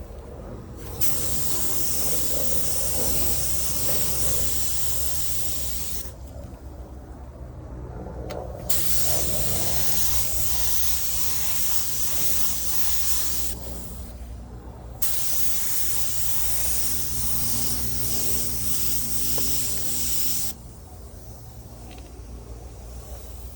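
Paint spray gun hissing in three long passes, each about five seconds, as base coat is sprayed onto the repaired panel. A steady low hum runs underneath.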